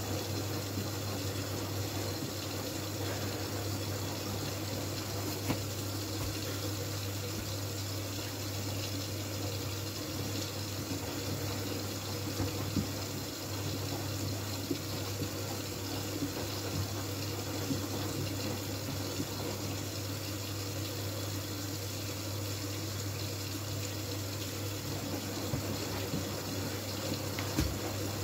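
Miele W433S front-loading washing machine with water running steadily into the drum over a constant low hum, with a few faint knocks from the load.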